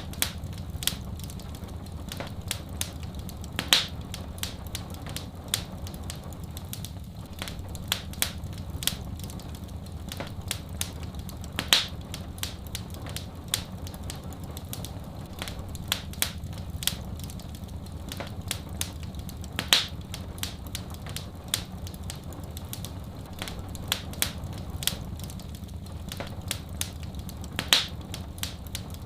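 Wood fire crackling in a fireplace: many small snaps and ticks, with a louder pop about every eight seconds, over a steady low rumble.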